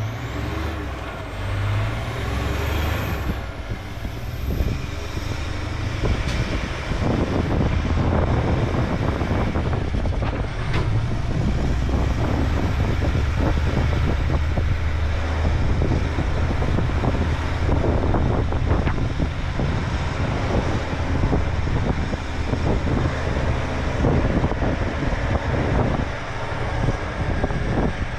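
Heavy diesel truck hauling a loaded lowbed trailer down the road, its engine note shifting in the first few seconds and then running steadily, over road noise.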